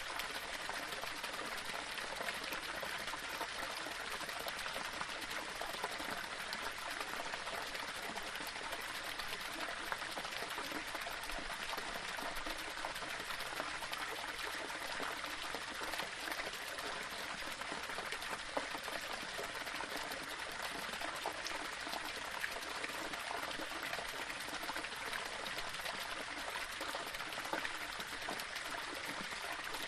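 Small waterfall splashing and trickling over stones, a steady even rush of falling water with small irregular splashes.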